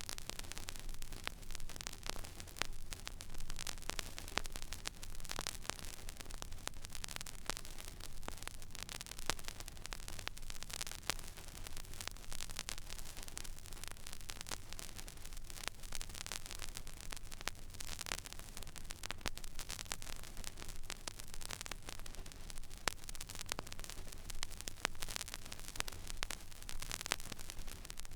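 Stylus riding an empty vinyl record groove: steady surface hiss with many small crackles and pops scattered throughout, over a low steady hum.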